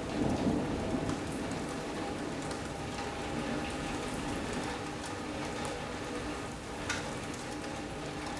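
Heavy rain falling steadily on a sunroom roof and windows during a severe thunderstorm. A short swell of low rumbling comes just after the start, and there is a single sharp tick about seven seconds in.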